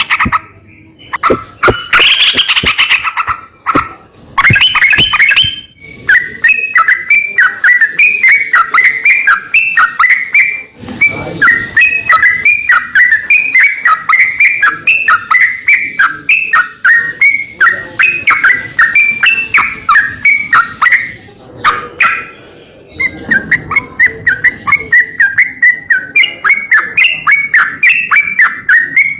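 A crocokan songbird singing energetically in a long, fast run of repeated chirping notes, about three to four a second. There are a few louder, harsher calls near the start and brief pauses between phrases.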